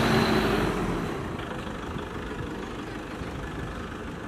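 Engine of a Toyota Innova MPV running as the vehicle rolls slowly out through a gateway. It is loud at first, then drops to a quieter, even low rumble about a second in.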